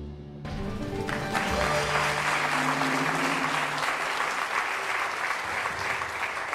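Studio audience applause breaking out with the show's correct-answer music, cutting in suddenly about half a second in over a low held tension drone.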